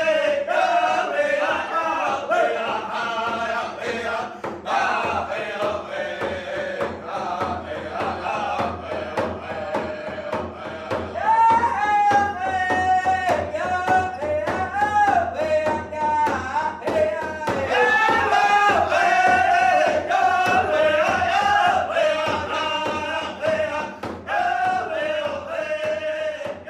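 Music: a group of male voices singing together in a chant-like melody, with long held notes that rise and fall.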